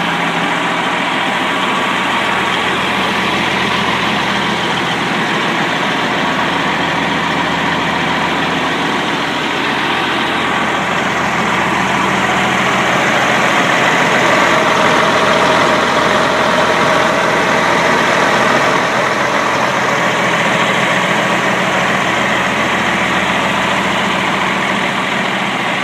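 Peterbilt 379 dump truck's diesel engine idling steadily, swelling slightly louder for a few seconds about midway.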